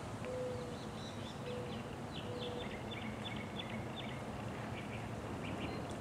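Birds calling: a quick run of short high chirps, with three short low hooting notes in the first few seconds, over a steady low background rumble.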